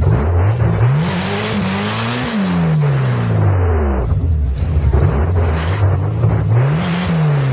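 Drag-race car engine revved repeatedly at the start line, its pitch climbing and falling about four times.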